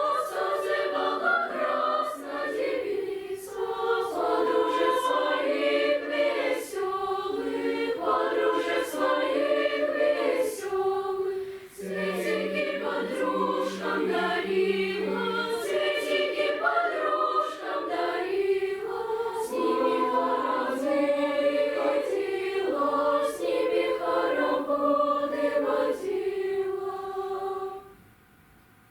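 Children's choir singing in several parts, with sustained chords. The singing stops near the end.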